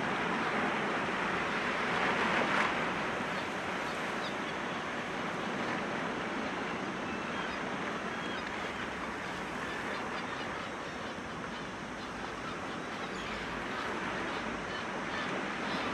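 Sea waves breaking gently against rocks: a steady rushing wash, with one wave surging up a little over two seconds in.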